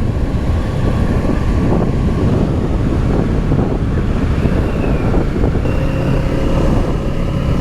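Kawasaki Z650's parallel-twin engine running under way, with wind rushing over the helmet microphone.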